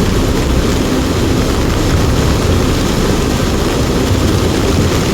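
Steady loud rushing rumble of a large lahar (volcanic mudflow) flood pouring down the river channel.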